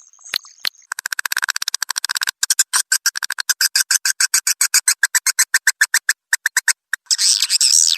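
Swiftlet lure-call recording of the kind played to draw edible-nest swiftlets into a nesting house. It has fast trains of dry clicking pulses, settling into an even rattle of about nine clicks a second. A dense chattering twitter takes over near the end.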